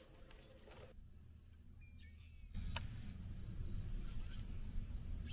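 Faint outdoor ambience: a steady high-pitched insect buzz over a low rumble that grows louder about two and a half seconds in, with a single sharp click just after.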